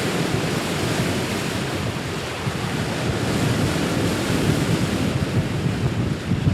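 Wind buffeting the microphone over open-ocean waves, a steady rushing noise with no break.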